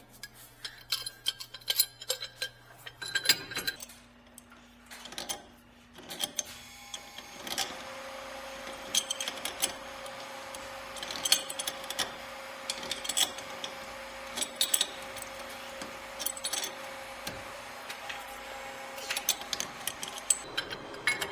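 Metal tools and pipe fittings clinking and knocking in irregular taps during steam-pipe work, over a steady hum that gets louder about seven seconds in.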